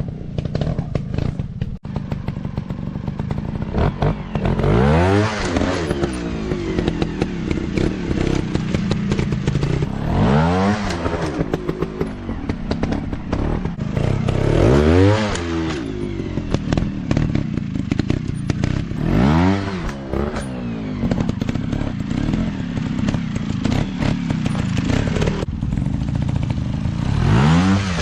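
Off-road dirt bike engine running, revving up and dropping back about five times, with clattering and thuds between the revs.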